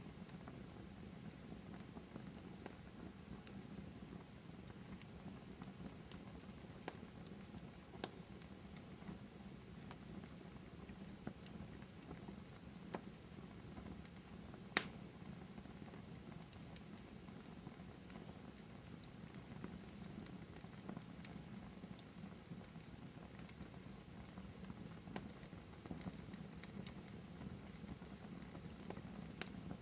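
Wood fire burning in a fireplace: a low steady hiss with scattered crackles and pops, one sharper crack about halfway through.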